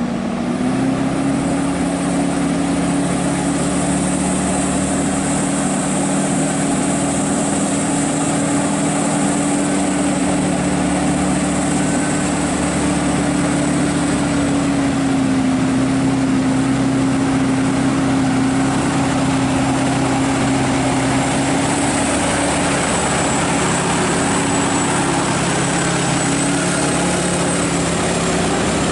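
Scania R580's V8 diesel engine running steadily under way, its pitch rising slightly about a second in and then holding.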